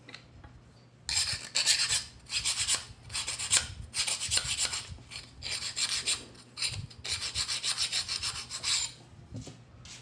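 Repeated rasping, scraping strokes worked back and forth by hand, about two a second. They start about a second in and stop near the end.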